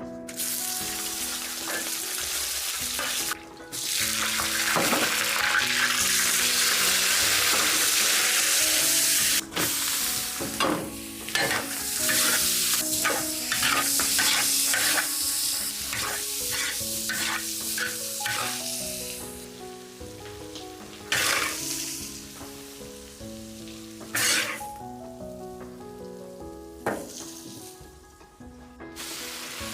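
Food frying in hot oil in a pan: a loud sizzle that starts about half a second in as the food goes in, stirred with short scraping strokes of a spatula, then dying down after about 20 s with a few brief flare-ups.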